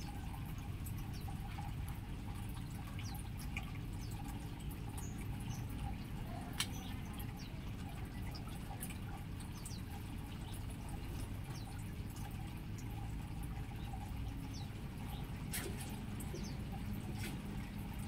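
Aviary birds giving short, high chirps, scattered and irregular, over a steady low background hum or rush, with one sharp click about six and a half seconds in.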